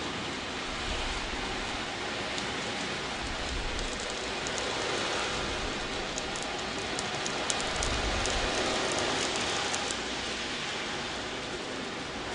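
Wave drum (ocean drum): loose beads rolling across the drumhead make a steady, rain-like hiss that imitates surf. It swells louder in the middle, with scattered fine pellet clicks.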